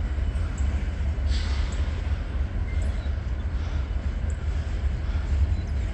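Slow-moving freight train, a steady low rumble.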